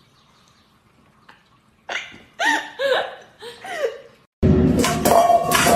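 A pet animal gives a series of four or five short calls, each bending up and down in pitch. About four seconds in, loud music cuts in.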